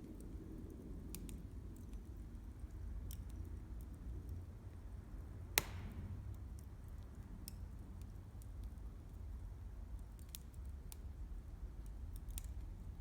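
Wood campfire crackling: scattered sharp pops and ticks from the burning firewood over a low steady rumble, with one louder pop about halfway through.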